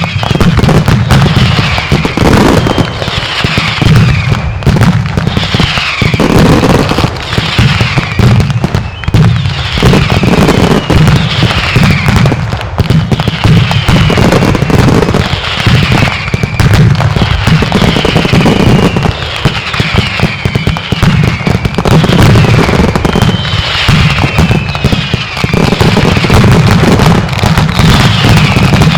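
Mascletà fireworks barrage: a dense, continuous, loud run of salutes and truenos banging in rapid succession. Whistles falling in pitch sound over it about once every second or two.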